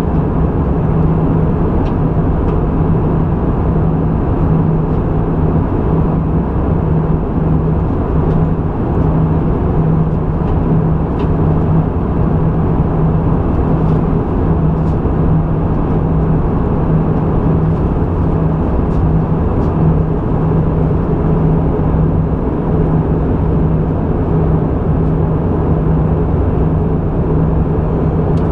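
Steady drone inside the cabin of an Airbus A320 airliner from its jet engines and airflow. A low hum holds at one pitch, with a few faint ticks.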